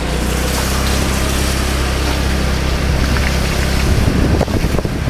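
A vehicle engine running with a steady low hum; about four seconds in it gives way to wind buffeting the microphone.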